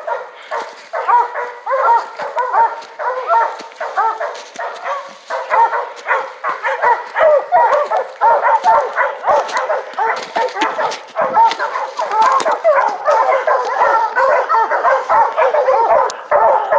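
A pack of bear hounds baying and barking continuously, several dogs' voices overlapping.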